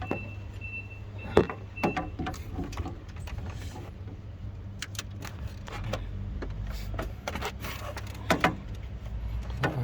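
Scattered clicks and metallic knocks of hand tools and parts being handled on a car engine, over a steady low hum. The loudest knock comes about a second and a half in, with two more close together near the end.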